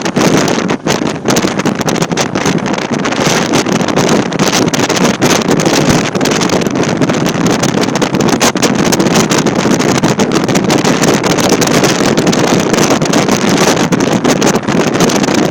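Strong wind buffeting the microphone: a loud, unbroken rushing noise with brief irregular dips.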